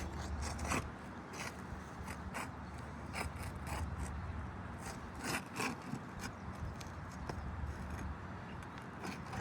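A hand tool scraping, prying and clicking against roof shingles in short, irregular strokes as a damaged shingle is worked loose.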